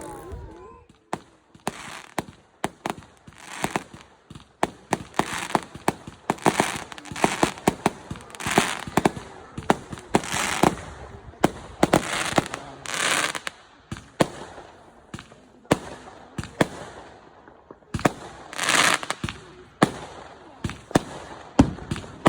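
Fireworks going off: a dense string of sharp bangs, often several in quick succession, mixed with longer bursts of crackle, starting about a second in.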